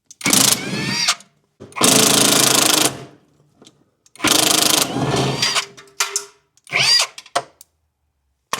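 Impact wrench running in four short bursts of about a second each, spinning up at the start of each, as it loosens rusty bolts. A sharp click near the end.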